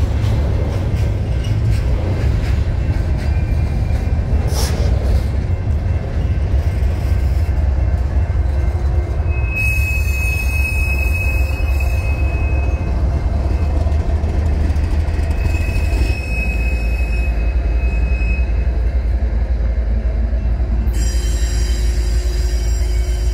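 Freight train rolling past: hopper cars, then a trailing GE ES44-type diesel locomotive, over a deep steady rumble of wheels on rail. A sharp knock comes about four and a half seconds in, and a thin, steady, high wheel squeal sounds twice, for about two seconds each, as the wheels grind through the curve of the wye.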